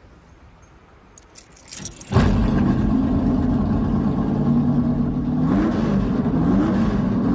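Car ignition: a few key clicks, then the car's engine fires suddenly about two seconds in and settles into a loud idle. It is blipped up and back down about two-thirds of the way through.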